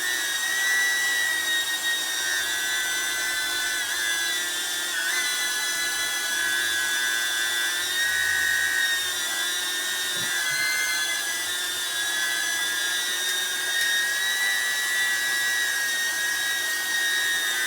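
DJI Neo drone's motors spinning Gemfan D51 five-blade propellers, giving a steady high-pitched whine. The pitch wavers briefly a few times, about four, five and ten seconds in.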